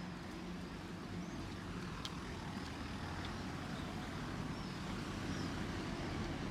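Street traffic: a car engine running steadily, growing a little louder toward the end, with a few faint high chirps above it.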